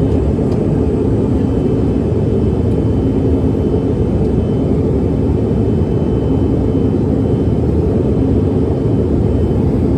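Steady rumble of jet engines and airflow heard inside the cabin of an American Eagle regional airliner, even and unchanging, with a faint steady hum in it.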